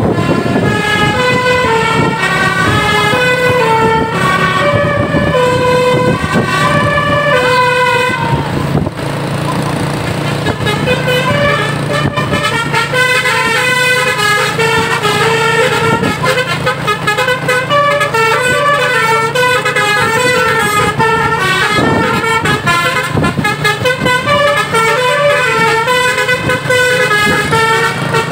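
A string of horn-like tones stepping up and down in pitch like a tune, over a steady low hum.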